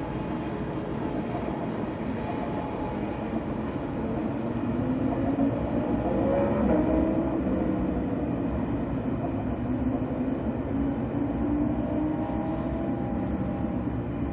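SRT high-speed train running past on a curve: a steady rail rumble that grows to its loudest about halfway through and then eases, with faint whining tones that slowly shift in pitch.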